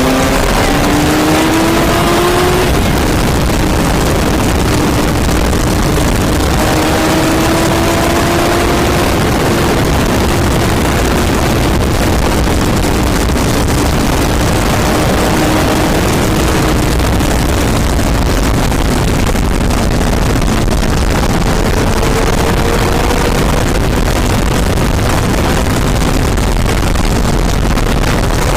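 Motorcycle engine running at speed, its note rising over the first couple of seconds and then holding fairly steady with slow small dips and rises, under a loud steady rush of noise.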